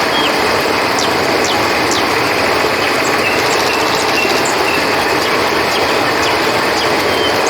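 Steady rushing of a flowing river, with a few faint, short, high chirps over it.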